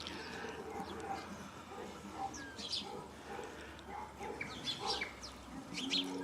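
Small birds chirping: short, scattered high chirps, half a dozen or so spread across a few seconds.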